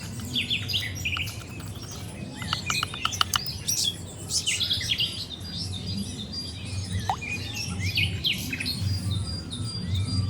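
Many birds chirping and calling, with a quick rattling trill of sharp ticks about two and a half seconds in, over a steady low hum.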